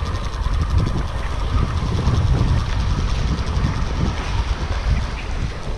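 Wind buffeting the microphone in gusts, over a steady haze of surf.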